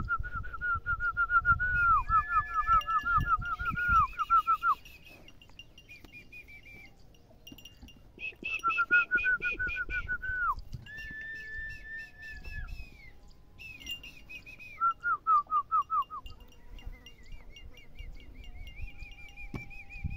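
Birds chirping in quick repeated phrases of short notes, several singing at once in bouts with short pauses, over a low rumble in the first few seconds.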